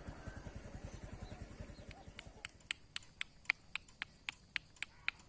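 A run of sharp, evenly spaced clicks, about four a second, starting about two seconds in, after a faint, fast low pulsing.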